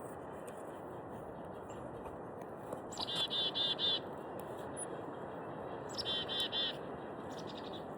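A small songbird calls in two short runs of quick, repeated high chirps, about three seconds in and again about six seconds in, over a steady rushing background noise.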